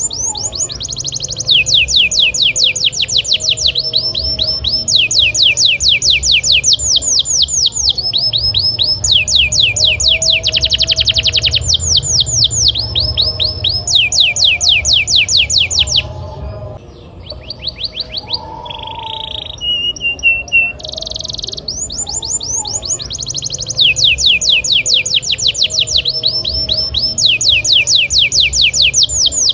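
Domestic canary singing: phrases of rapid, falling whistled notes, each phrase about a second or two long, one after another with changes of pitch and speed. The song dips to a softer, sparser stretch about halfway through. A faint low rumble runs underneath.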